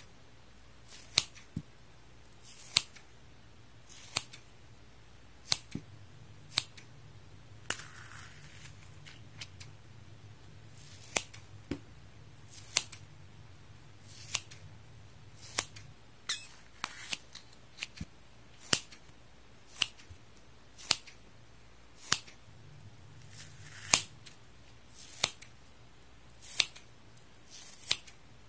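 Scissors snipping through a high-elasticity sponge, one crisp snip every second or so, with a quick run of four snips about two-thirds of the way through.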